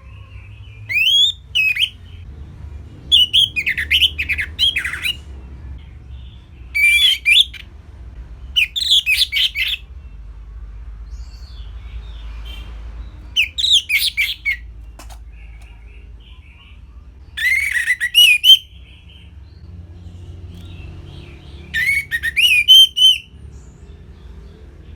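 Orange-headed thrush singing: about seven short phrases of quick, varied whistles and trills, separated by pauses of one to three seconds, over a faint low hum.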